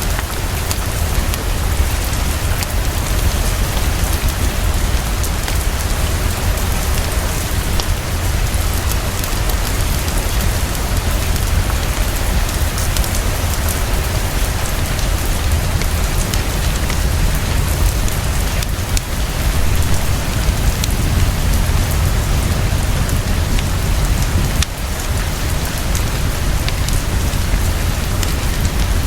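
Heavy, fast, steady rainfall with a deep low rumble beneath it, and faint crackles of a fireplace through the rain.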